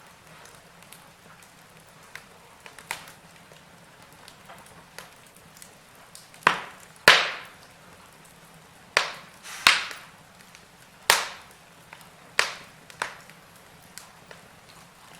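Wood fire in a fireplace crackling, with scattered sharp pops over a faint steady hiss; the pops come thicker and louder through the middle.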